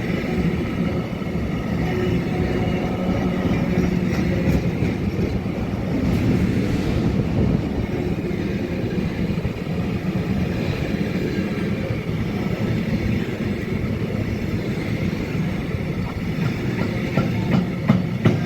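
Train moving along the track with a steady rumble and hum. Near the end, wheels start clicking rhythmically over rail joints.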